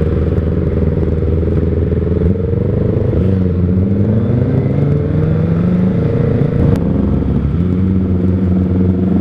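Kawasaki ZX-25R's 250 cc inline-four running through an R9 Zeta aftermarket exhaust while riding. The engine note drops and climbs a few times as the throttle and gears change, then holds steady near the end.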